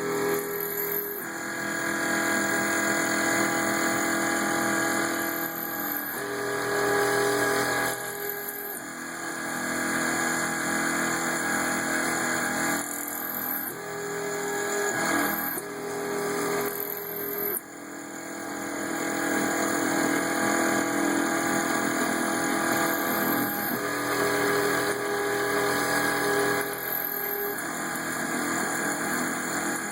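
CNC mini mill (LMS 3900 HiTorque Mini-Mill) cutting under flood coolant: the spindle runs steadily while the axis motors whine, their pitch changing every second or few as the tool path switches moves.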